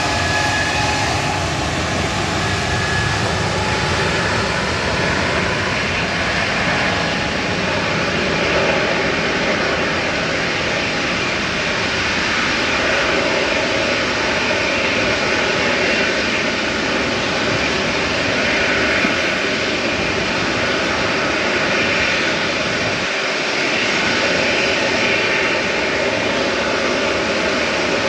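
Jet airliner's engines running, a loud, steady noise, with faint whining tones near the start that fade away.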